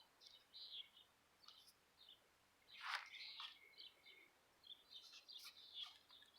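Faint bird calls: several birds chirping on and off, with one louder call about three seconds in.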